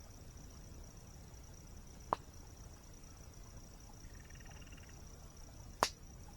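Campfire wood popping sharply twice, about two seconds apart from the start and again near the end, over a steady high insect trill and a low rush of falling water. A faint brief trill, like a frog or insect, sounds in the middle.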